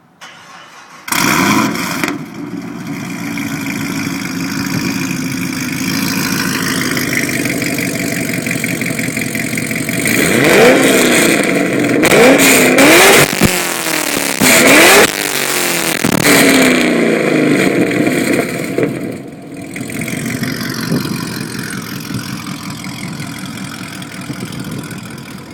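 2010 Chevrolet Camaro engine with a full exhaust starting up: a brief crank, then it catches loudly about a second in and settles to a fast idle. Around the middle it is revved in several quick blips that rise and fall in pitch, then it drops back to a steady idle.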